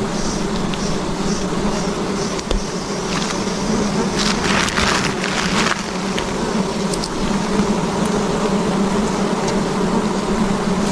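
A swarm of wild honeybees buzzing steadily around their comb, a continuous hum. A brief rough, rustling noise breaks through about four seconds in and lasts under two seconds.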